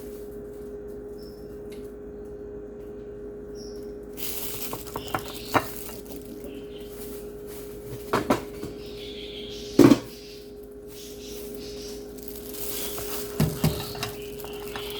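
Kitchen utensils and cookware clinking and knocking: a spoon or ladle against a pot and dishes, in scattered separate strikes, the loudest a sharp knock about ten seconds in. A steady low hum runs underneath.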